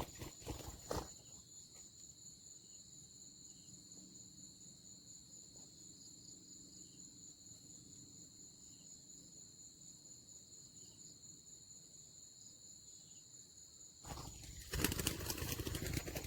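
Steady high-pitched chirring of insects, with a loud rustling from about 14 seconds in to the end, and a shorter rustle in the first second.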